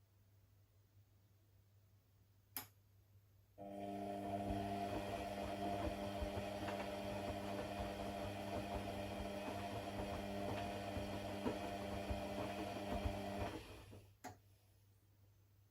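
An electric motor runs steadily for about ten seconds with a steady hum, starting abruptly and winding down near the end, with a single click before it starts and another after it stops.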